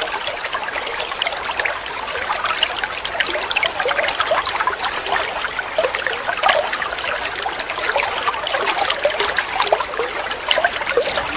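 A dense chorus of many canaries chirping and twittering together, short overlapping calls and trills running without a break, the massed 'ombyokan' sound used to tutor and stir silent canaries into song.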